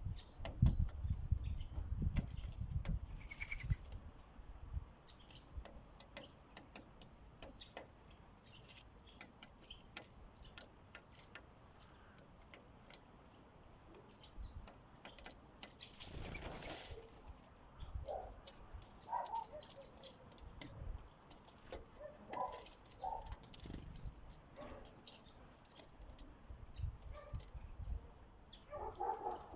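Sparrows at a bird feeder: wings flutter, beaks tap in small clicks, and short chirps come now and then. Dull thumps sound in the first few seconds, with a louder flutter about halfway through.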